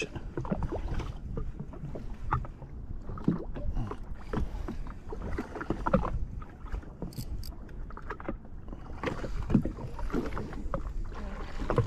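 A jetski on open water: a steady low rumble of wind and water on the microphone, with scattered knocks and clicks from handling gear on board.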